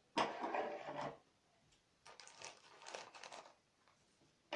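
A plastic chip packet being handled and crinkled: a loud rustle lasting about a second, then quieter crinkling a second later.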